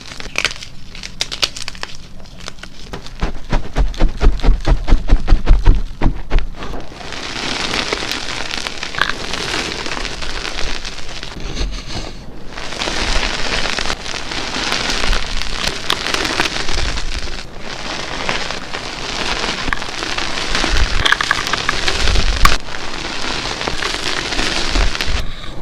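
Dyed gym chalk being crushed and crumbled. It starts with quick crunchy crackles and a few heavier pressing thumps, then turns into a dense, steady crumbling of soft chalk breaking apart, with a brief pause about halfway.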